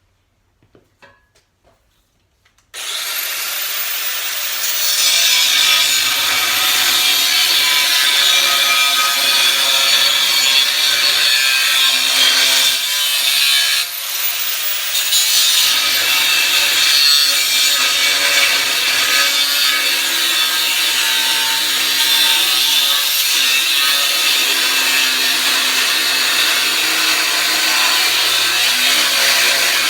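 Power tool cutting through a thick steel plate: it starts up about three seconds in, runs steadily with a loud gritty cutting noise, dips and starts up again about halfway, and starts again near the end.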